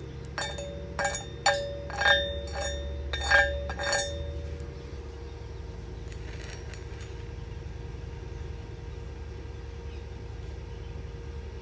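A steel hammer strikes a welded steel test plate about seven times in the first four seconds, each blow a sharp ringing clink. A steady low hum carries on underneath.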